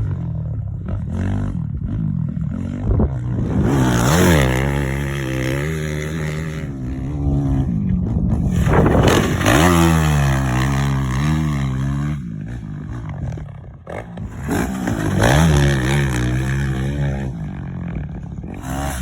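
Motocross bike engine revving up and down as it is ridden, its pitch repeatedly rising and falling with the throttle. It backs off for a couple of seconds about twelve seconds in, then picks up again.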